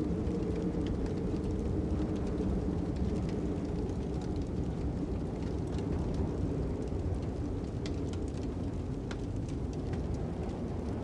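Steady low wind rumble with scattered small crackles and pops from a burning fire.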